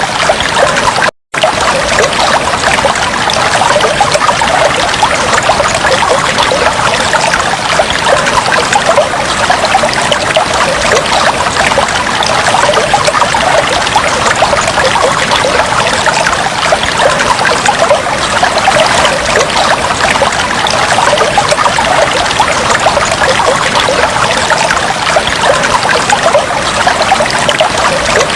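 Fish tank water trickling and bubbling steadily, a dense fine splashing, cut by a brief moment of silence about a second in.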